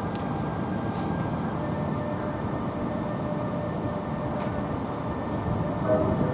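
A train rolling through a station: a steady rumble with faint whining tones, and a brief louder pitched sound near the end.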